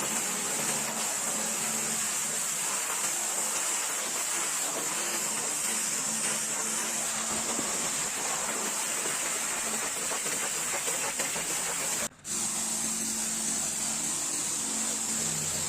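Pressure washer spraying water in a steady hiss, with a steady low hum underneath; the sound cuts out for an instant about twelve seconds in.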